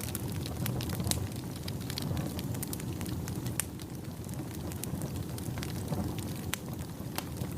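Wood fire crackling in a fireplace: a steady low rush of flame with frequent sharp snaps and pops at irregular intervals.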